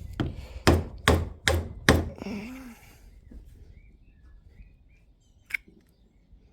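Four quick hammer blows in a row on a tool driven into a worn bush to split it out, then a single light knock near the end.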